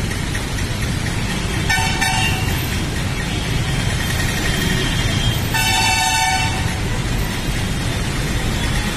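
Steady rumbling vehicle noise, with a horn sounding twice in short blasts, about two seconds in and again about five and a half seconds in.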